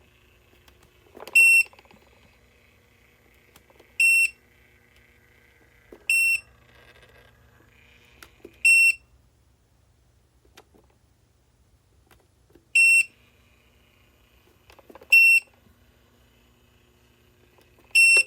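Portable electric space heater's control panel beeping: seven short, high electronic beeps at uneven intervals.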